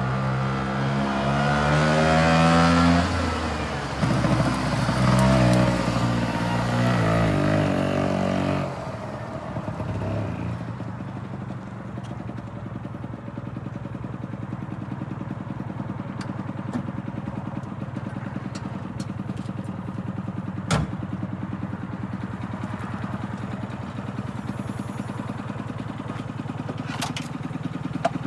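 Small engine of a three-wheeled van revving, its pitch rising and falling for about eight seconds, then settling into a steady, quieter, even running. A single sharp click comes about two-thirds of the way through.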